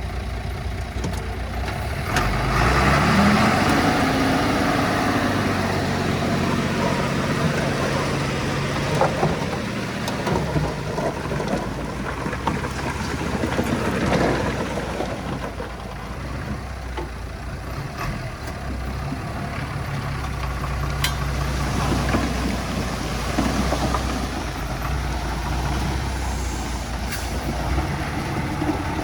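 Heavy diesel engine of earthmoving machinery running, revving up about two seconds in and then working on with its pitch and level swelling and easing, with a few sharp metallic clicks later on.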